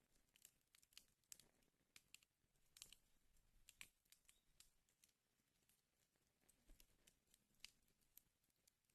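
Wood fire crackling in a fireplace: faint, irregular sharp pops and snaps, several a second at times.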